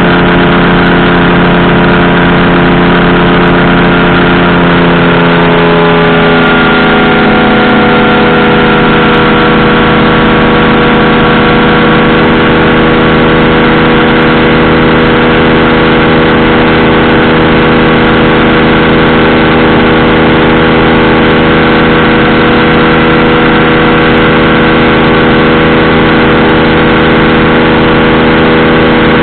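Powered parachute's engine and propeller running loud and close. The drone rises in pitch from about four to seven seconds in as the engine speeds up, then holds steady at the higher speed.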